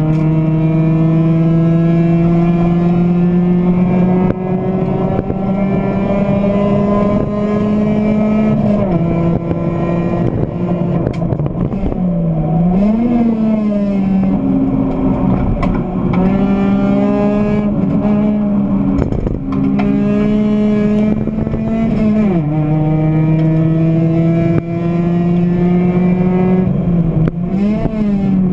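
1997 Honda Civic 1.5's four-cylinder engine at racing revs, heard from inside the stripped cabin. The revs climb steadily for about eight seconds, drop at a gear change, then dip and recover several times as the driver lifts and shifts through the corners.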